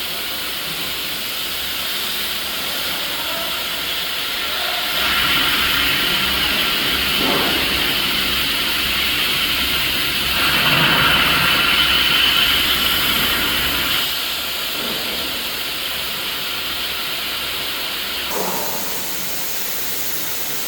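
CNC plasma cutter's arc hissing steadily as it cuts through metal plate, louder for a stretch in the middle.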